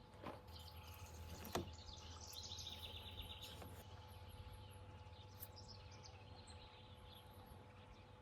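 Quiet outdoor ambience with a faint bird trill, a quick run of repeated high chirps, from about two and a half to three and a half seconds in, and two soft clicks near the start.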